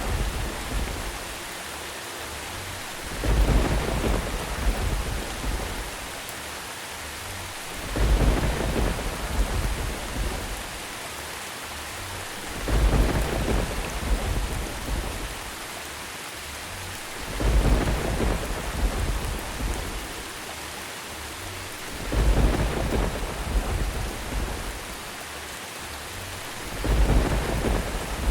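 Steady rain with a low thunder rumble swelling up and fading every four to five seconds, six times, at very even spacing like a repeating loop.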